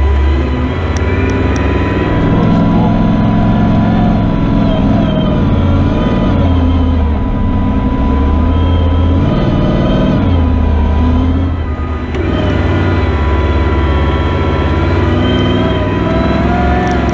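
Rally raid vehicle's engine heard from inside the cabin, working hard through soft dune sand. The engine note rises and falls repeatedly, with a brief drop about twelve seconds in, over a faint steady whine.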